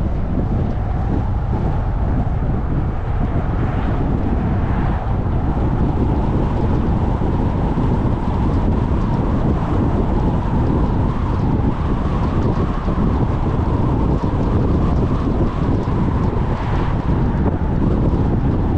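Steady road and wind noise from a car driving at speed, with wind buffeting the microphone; the noise swells briefly about four seconds in and again near the end.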